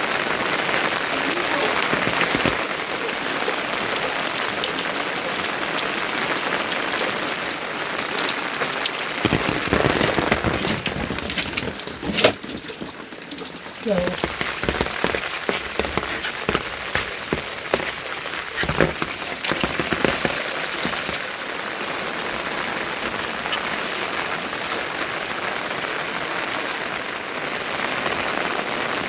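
Steady rain falling and pattering on surfaces, with sharper drip and tap sounds scattered through the middle stretch.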